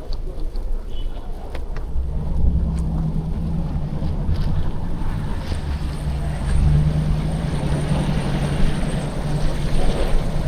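City traffic: a motor vehicle's engine running close by, a low rumble with a steady hum from about two seconds in, mixed with wind buffeting the action camera's microphone. A few light ticks near the start.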